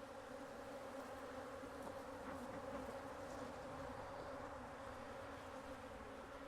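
Many honeybees buzzing around an opened hive, a steady low drone.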